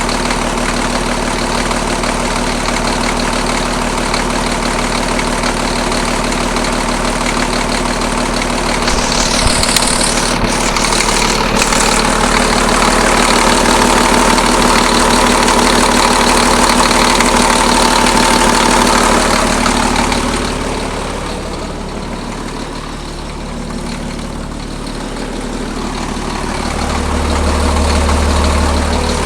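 Caterpillar D6B dozer's diesel engine running steadily at idle, freshly repaired and holding its coolant. The sound drops about two-thirds of the way through and builds back up near the end.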